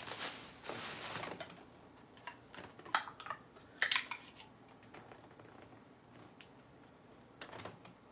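Plastic food containers and utensils being handled: a rustle in the first second, then a few separate sharp clicks and knocks.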